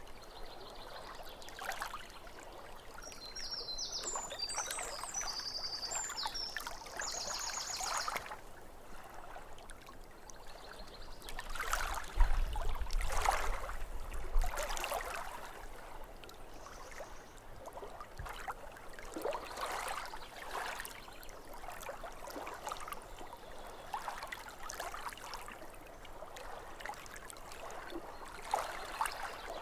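Small waves lapping irregularly against a lake shore, with a louder surge of water around twelve seconds in. A bird sings a short phrase of high chirps a few seconds in.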